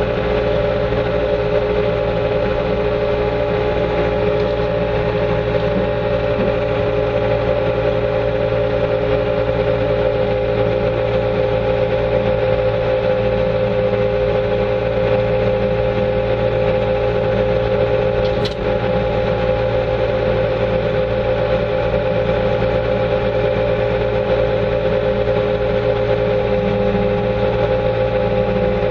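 Bobcat 2410 articulated loader's engine running steadily while plowing snow, heard from inside the cab, with a steady whine over a low rumble. A brief dropout with a click about two-thirds of the way through.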